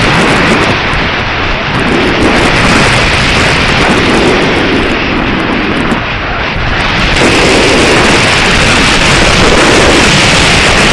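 Strong gusty wind buffeting the microphone: a loud, rumbling noise that surges and eases, slackening briefly about six seconds in before building again.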